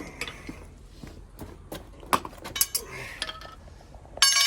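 Metal tools and parts clinking during work on a truck's wheel hubs: scattered sharp clinks, then a louder ringing metallic clatter near the end.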